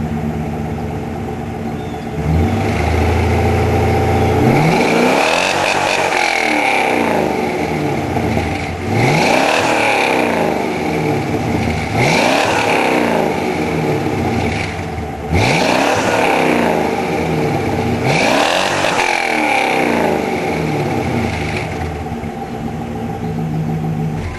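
Chevrolet Caprice's 5.7-litre LT1 V8 idling through its dual exhaust just after a throttle body cleaning, then revved five times. Each rev climbs and drops back over two or three seconds before the engine settles back to idle near the end.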